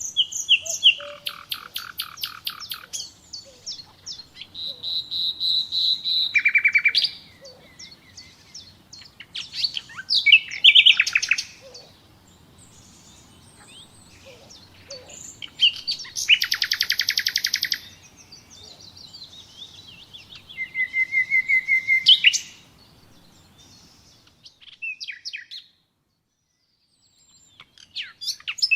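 Common nightingale singing: a string of varied phrases, each a rapid run of repeated notes, some swelling in loudness, with short pauses between phrases. The faint background hiss cuts out about two-thirds of the way through.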